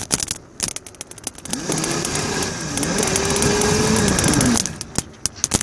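Small kids' dirt bike motor whining under load, its pitch rising and falling for about three seconds in the middle, amid knocks and rattles from riding over bumps.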